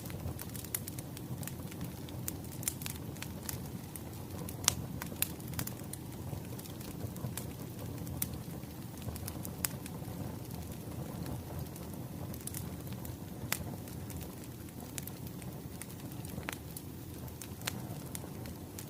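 Wood fire crackling: a steady low rumble with frequent sharp pops and snaps, and one louder pop about five seconds in.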